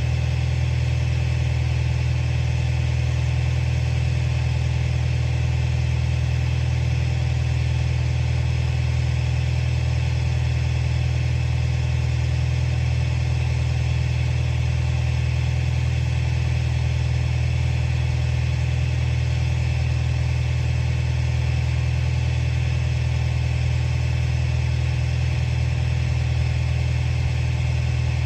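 Komatsu bulldozer's diesel engine running steadily at a constant speed.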